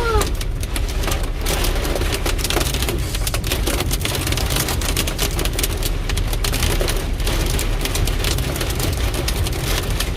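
Heavy rain mixed with hail pelting down in a thunderstorm: a dense, steady patter of sharp hits over a low rumble of gusting wind.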